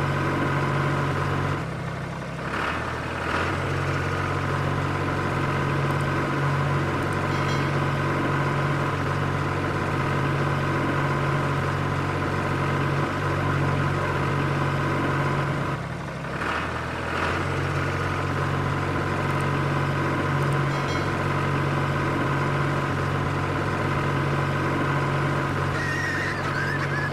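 Small electric motor of a DIY model tractor machine running steadily with a constant whine, dipping briefly twice.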